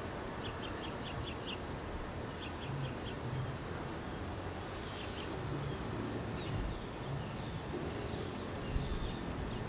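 Small birds chirping in short quick runs of calls, heard over a steady background hiss.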